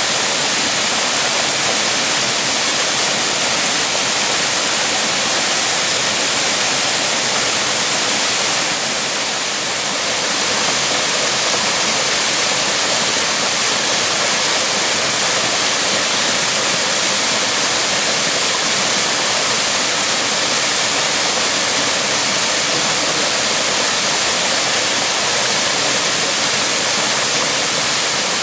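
Waterfall pouring: a loud, steady rush of falling water, dipping slightly for a moment about nine seconds in.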